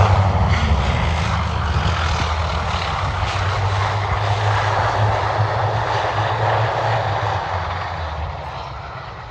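Aircraft engines running, a loud steady drone with a low hum underneath, fading over the last second or two.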